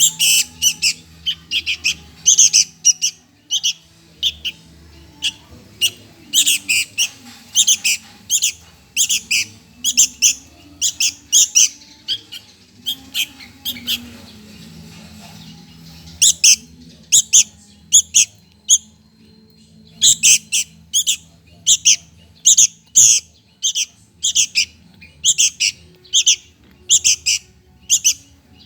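Sooty-headed bulbul chick begging for food: runs of short, sharp, high chirps repeated rapidly, with a pause of a few seconds about halfway through.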